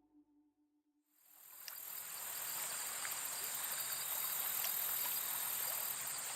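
Outdoor nature ambience fading in after about a second of silence: a steady, high-pitched insect chorus, like crickets, over a soft hiss.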